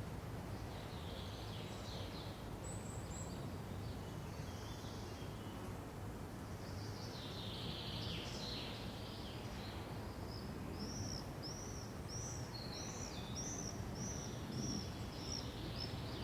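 Songbirds calling over a steady low background noise. There are scattered high chirps at first, then about halfway through one bird repeats a short arched note about twice a second until the end.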